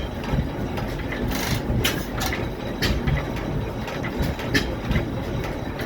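1902 La Fourmi engine running with a steady low rumble, and sharp clicks at uneven intervals.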